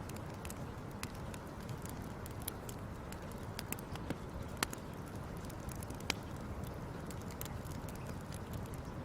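Wood fire crackling: a steady low rumble of flames with irregular sharp pops and snaps, two of them louder about four and a half and six seconds in.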